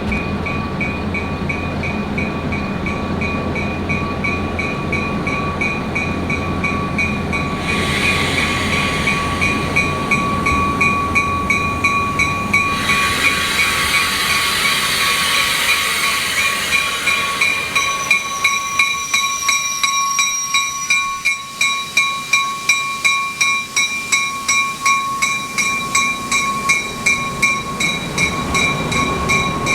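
A train passing, its wheels clicking rhythmically over rail joints about twice a second in the second half, over a steady repeating ringing tone.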